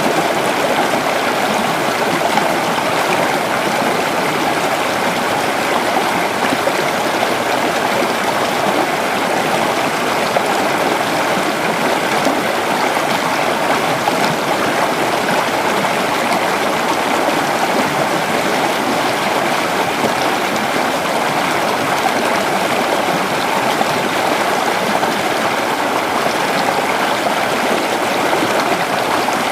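Creek water flowing over rocks, a steady rushing babble with no breaks.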